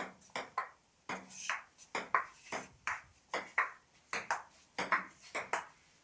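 Table tennis rally: the ball clicking sharply off bats and table in quick alternation, about three hits a second.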